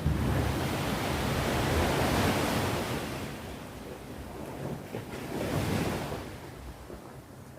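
Ocean waves breaking and washing on the shore, swelling twice and then easing off, with some wind rumble on the microphone.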